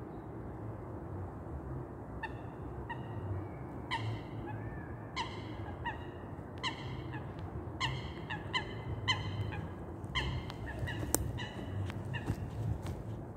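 Birds calling: a run of short, honk-like calls that begin about two seconds in and repeat irregularly, once or twice a second, over a steady low outdoor rumble.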